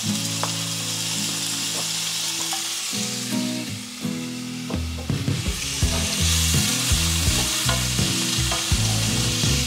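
Frozen mixed vegetables sizzling in hot oil with browned garlic as they are added to the pan and stirred with a wooden spatula; the sizzle grows louder about halfway through.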